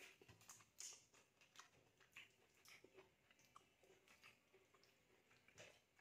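Faint sounds of a person biting and chewing roast chicken: soft, irregular mouth clicks and smacks, the loudest about a second in.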